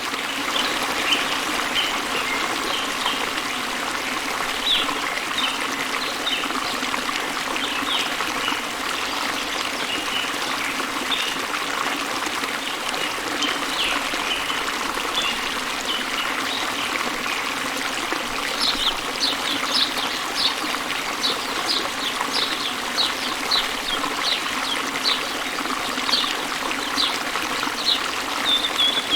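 Small waterfall splashing into a river, a steady rush and trickle of water, with birds chirping over it; about two-thirds of the way in one bird starts a regular run of short chirps, about two a second.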